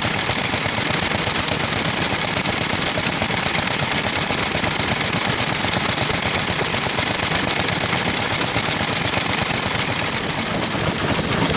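Vintage Japanese stationary engine (hatsudōki) running, its exhaust firing in a steady stream of rapid sharp pops.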